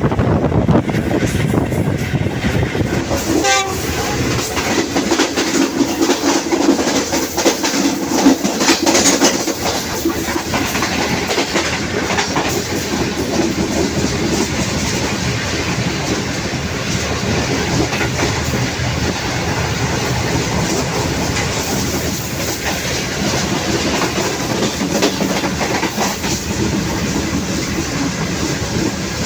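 GreenLine Express passenger train running steadily, heard from on board, its wheels clattering over the rail joints.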